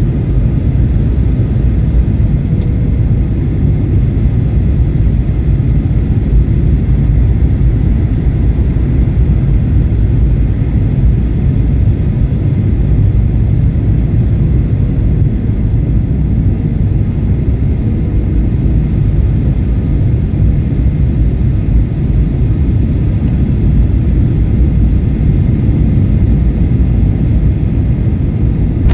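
Steady, loud, low rumble of a jet airliner heard from inside the passenger cabin: engine and airflow noise during the landing.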